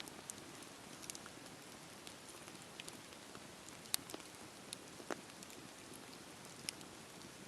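Wood fire burning with a soft steady hiss and scattered sharp crackles and pops, the loudest about four and five seconds in.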